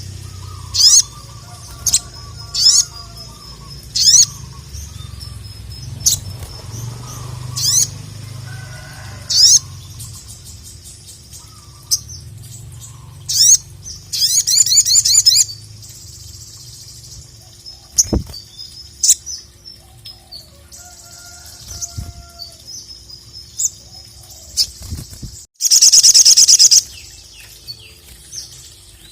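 Sogok ontong (sogon) sunbird calling: sharp high chirps repeated every second or two, a fast trill about halfway through, and one loud dense burst of song near the end.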